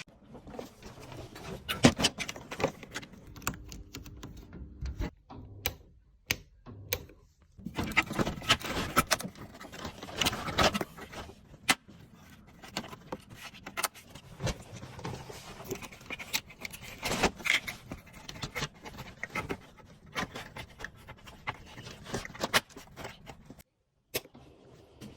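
Irregular metallic clinking and clattering with some scraping: metal parts being handled during work on a roller-shutter motor.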